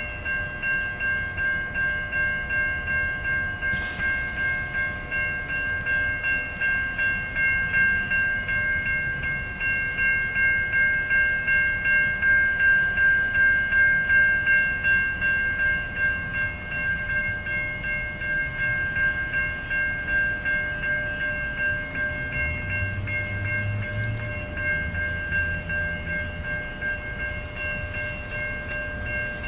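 Railway level crossing warning bell ringing in a steady, even rhythm, its ringing tones pulsing a little under twice a second. A low rumble joins in about three-quarters of the way through.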